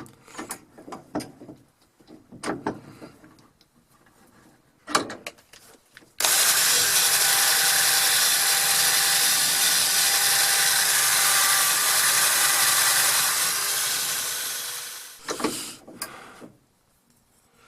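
Craftsman electric drill spinning a wire wheel against a rusty, badly pitted steel auger bit: a loud, steady whirring scour that starts suddenly about six seconds in and winds down near the end. Before and after it, scattered clicks and knocks of the bit being handled.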